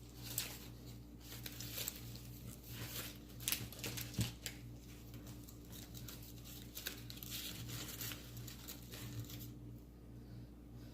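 Rustling, crinkling and light clicks of roses and wire being handled against a bird cage as they are positioned, with scattered small ticks. A steady low hum runs underneath.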